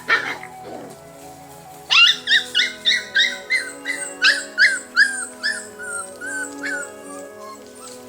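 An animal calling over background music. A falling call at the start is followed, about two seconds in, by a run of about fifteen short, high, yelping calls at roughly three a second, which grow fainter toward the end.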